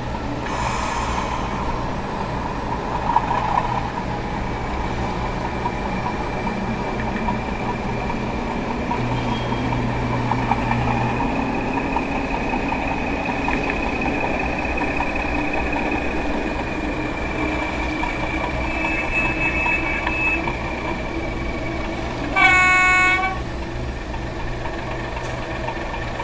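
Diesel locomotive engine running steadily, with one short horn blast about 22 seconds in.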